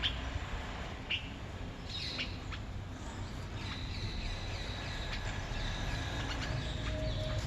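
Birds chirping in short, high calls over a steady low rumble of outdoor background noise, with a thin steady high tone from about three seconds in.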